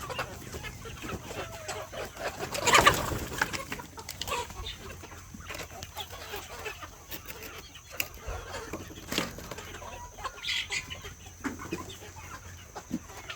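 Domestic chickens clucking, with scattered short calls and a loud rustling burst about three seconds in.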